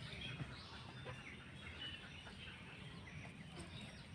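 Faint bird calls, short chirps and clucks, over a low steady background hum.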